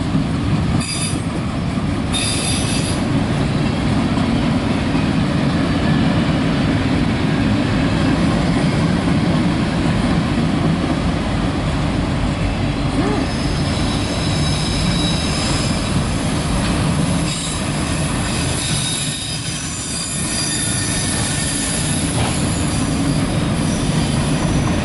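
CSX freight train cars rolling past with a steady rumble of wheels on rail. High-pitched wheel squeal comes and goes, briefly near the start and more often in the second half.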